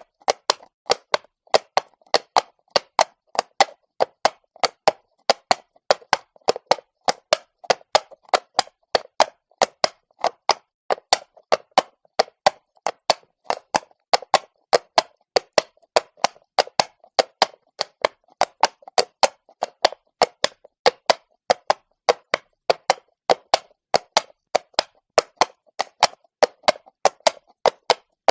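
Horse's shod hooves clopping on cobblestones at a walk, a steady run of sharp knocks at about three to four a second in the four-beat walking rhythm.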